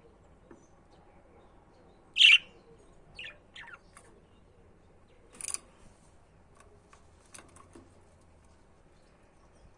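Budgerigars chirping sparsely: one loud short chirp about two seconds in, a couple of softer chirps just after, and another sharp high chirp about halfway through, with faint ticks between.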